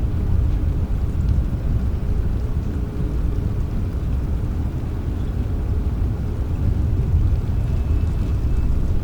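Rainstorm ambience: rain with a steady low rumble of thunder underneath.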